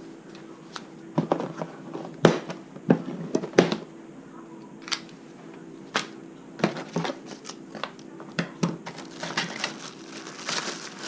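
Irregular sharp clicks and knocks, a dozen or so, with a patch of small crackling sounds near the end, over a steady low hum.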